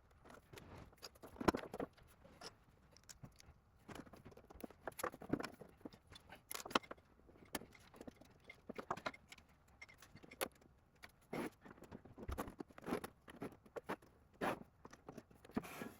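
Irregular light clicks, taps and small rattles of 3D-printed plastic parts and small screws being handled and fitted together by hand.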